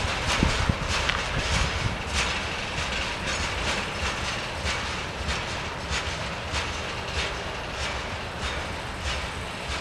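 Train of grain hopper wagons rolling away, its wheels clicking over rail joints in an uneven run of clacks over a steady rumble, slowly fading.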